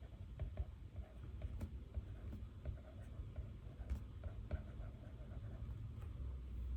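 Pen writing on paper, with short irregular scratching strokes and light ticks, over a steady low rumble.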